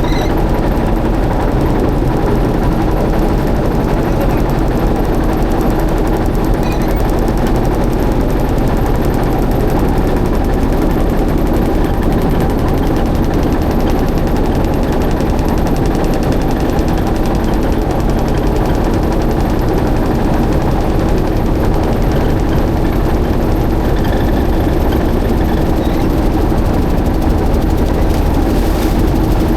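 Boat engine running steadily and loudly, a rapid, even mechanical pulsing with a constant hum that does not change speed.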